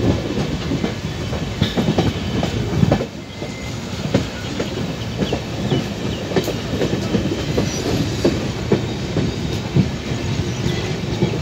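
Kopotaksho Express passenger coaches running through a junction station's approach, heard from an open door: steady wheel-and-rail rumble with irregular clattering knocks as the wheels pass over rail joints, with a brief lull about three seconds in.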